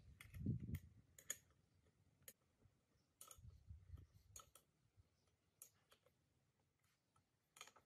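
Faint, irregular light clicks and taps, about a dozen scattered through, with soft low thumps near the start and again about three and a half seconds in, as of small parts or tools being handled.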